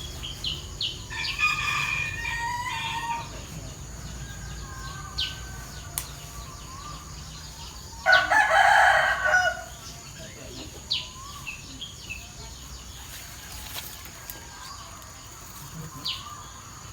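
A rooster crowing, once faintly near the start and once loudly about eight seconds in, with small birds chirping repeatedly and a steady high insect-like hiss behind.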